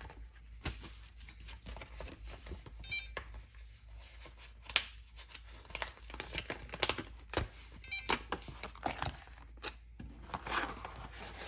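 Sticker decals being peeled from their backing sheet and pressed on by hand: irregular crinkling, tearing and light tapping, with one sharper snap about halfway through.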